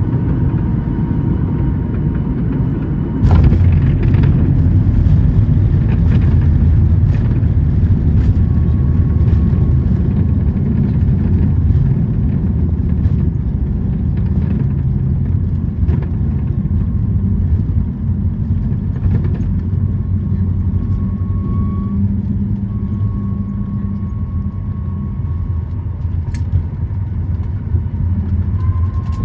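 Cabin noise of a Boeing 737 MAX 8 landing: a loud, steady low rumble that jumps suddenly louder about three seconds in, then eases slightly in the second half.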